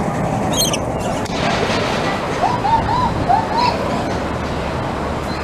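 Steady outdoor background noise of a busy park, with a short high chirp about half a second in and a run of about four brief rising-and-falling calls around the middle.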